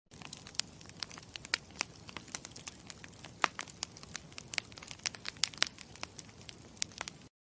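Campfire crackling: a steady hiss of burning wood with frequent sharp, irregular pops, cutting off abruptly near the end.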